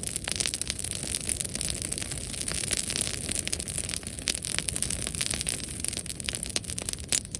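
Bonfire burning, with many irregular sharp crackles and pops over a steady hiss.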